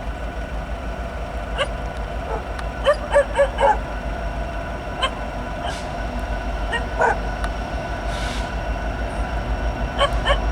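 A dog barking and yipping in short, separate yelps, a few times over several seconds, over a steady low rumble.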